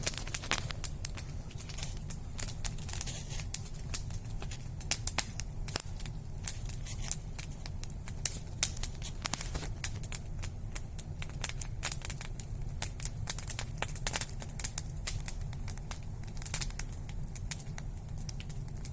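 Freshly lit campfire crackling, with many irregular sharp pops and snaps over a steady low rumble.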